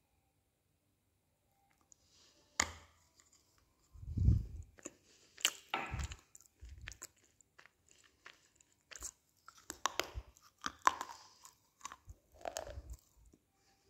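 Biting and crunchy chewing of a dry, chalky block of clay close to the mouth: a sharp snap about two and a half seconds in, then irregular crunches and chewing sounds.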